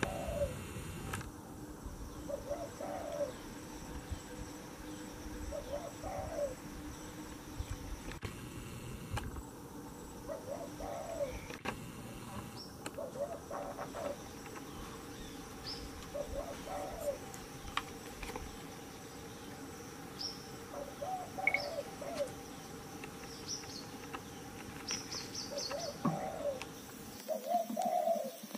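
Birds calling in the background: a low, short call repeating every few seconds, with scattered high chirps, mostly in the second half.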